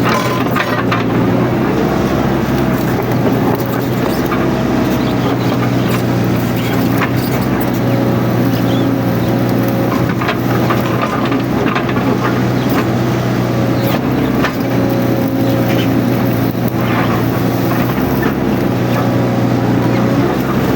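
Mini excavator's diesel engine running steadily under working load, with scattered clicks and knocks over it.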